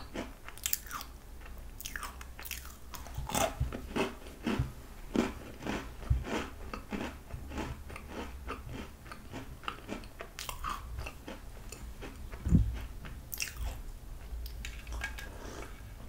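A person chewing food close to the microphone, with many short wet smacking mouth sounds. One louder low thump about twelve seconds in.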